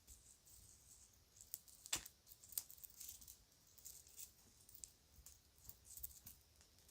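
Kids' jewelry being handled close up: quiet, irregular light clicks and clinks, with the sharpest click about two seconds in.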